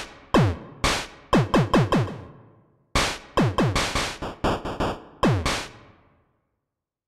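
Electronic drum hits, each dropping quickly in pitch like synth toms, played in quick runs. One run, a short pause about three seconds in, then a second faster run that stops about six seconds in.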